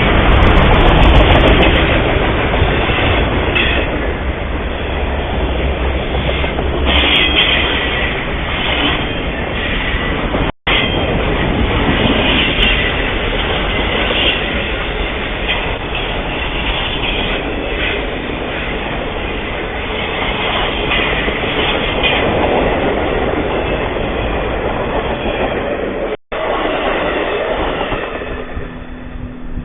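A train rolling past close by: continuous noise of steel wheels running on the rails, heard through a trail camera's microphone. The sound cuts out for an instant twice and dies down near the end.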